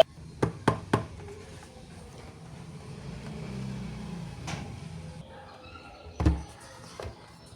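Scattered clicks and knocks of objects being handled: three quick ones in the first second, a few more later, and a heavier knock with a low thump about six seconds in.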